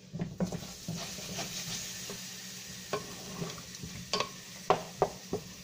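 Sliced potatoes frying in hot oil with cumin seeds in a nonstick pot, sizzling steadily, while a spatula stirs and turns them with a few sharp scrapes and knocks against the pot.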